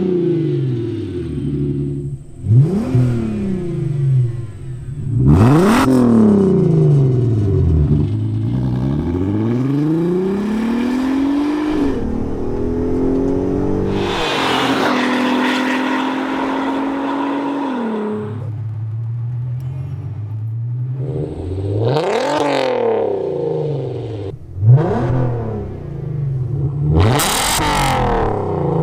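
Volkswagen Mk5 R32's 3.2-litre VR6 engine through an ECS stainless valved catback exhaust, being revved repeatedly. There are several quick blips that rise and fall back to idle, then a slower climb held at higher revs for a few seconds before dropping to idle, and more sharp blips near the end.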